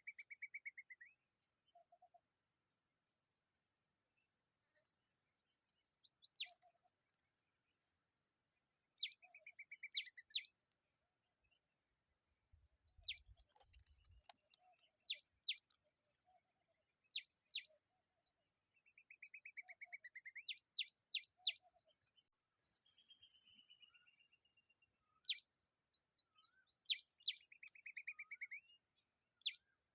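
Common babbler calls at the nest: quiet, repeated short chirps that sweep sharply downward and falling chattering trills, coming in clusters every few seconds over a steady high hiss.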